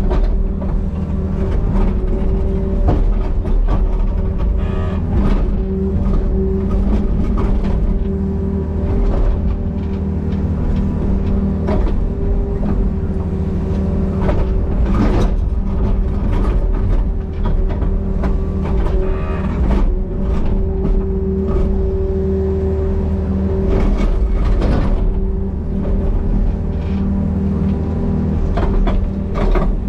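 Compact excavator's diesel engine running steadily under load, with scattered knocks throughout.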